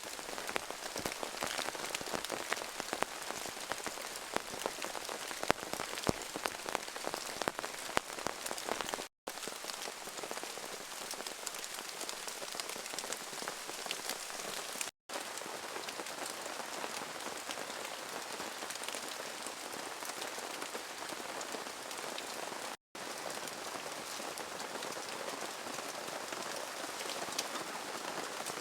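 Rain falling steadily, a dense patter of drops striking a surface, broken by three brief silent gaps.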